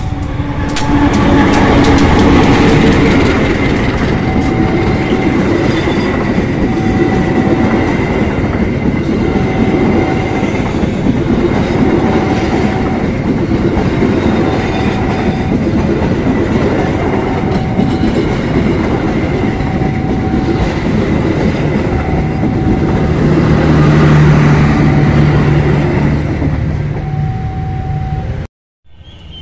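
A KAI diesel-electric locomotive and its passenger coaches pass close by, with loud continuous wheel and rail noise and clickety-clack over the rail joints. A short tone repeats about every two seconds. A low steady hum comes up near the end as the last coaches go by, and then the sound cuts off abruptly.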